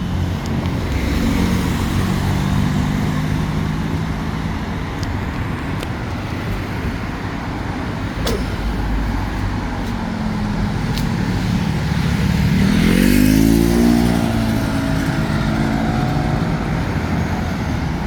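Street traffic: motor vehicle engines running, with one vehicle accelerating past about two-thirds of the way through, its engine note rising as it gets louder.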